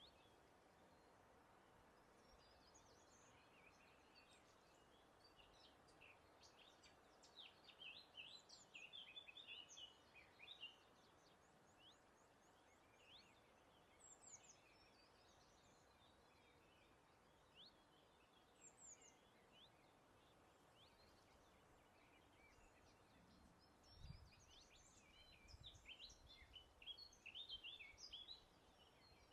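Faint birdsong of quick high chirps and trills, coming in two busy bouts, about seven seconds in and again near the end, with single calls between. Under it runs a steady soft hiss of breeze, with a brief low rumble about twenty-four seconds in.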